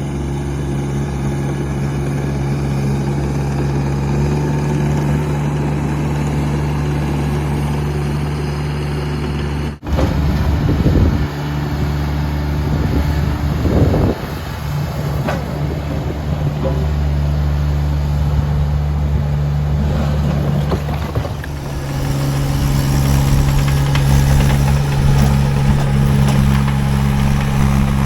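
Diesel engine of a Baumalight TRL620D mini skid steer running steadily. After a sudden break about ten seconds in, it surges twice under uneven load as the machine works, then settles back to a steady run.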